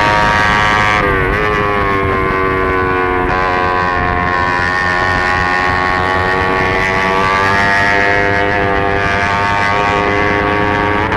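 On-board sound of a 300-class race motorcycle's engine at high revs while cornering. The note dips about a second in and steps again about three seconds in, then climbs slowly, with a steady rush of wind over the camera.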